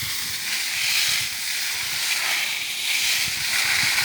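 Water spraying from a garden hose onto plants: a steady hiss that swells and fades a little as the spray moves.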